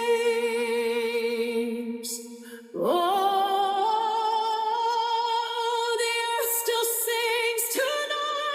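Background music with a sung voice on long held notes with vibrato; about three seconds in the voice slides upward into another long sustained note.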